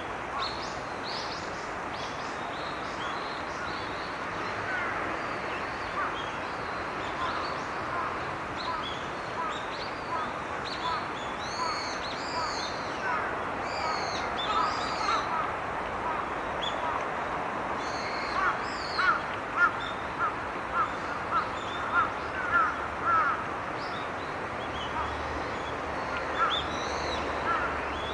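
Wild birds calling by a small river: thin high chirps keep coming over a steady rush of background noise, and about two-thirds of the way in a bird gives a run of about ten louder, lower calls in quick succession.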